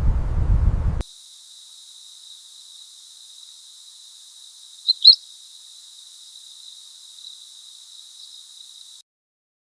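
Forest ambience: a low rumble cuts off abruptly about a second in, giving way to a steady, high, insect-like trill over a faint hiss. Two short, sharp chirps come about halfway through, and the trill stops abruptly near the end.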